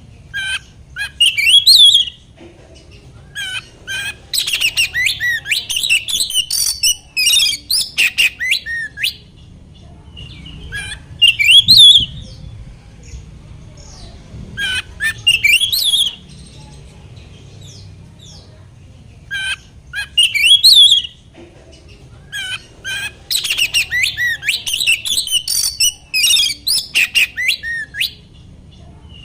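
Oriental magpie-robin singing loud, varied phrases of rising whistles and rapid chattering trills. The song comes in repeated bouts separated by pauses of one to two seconds.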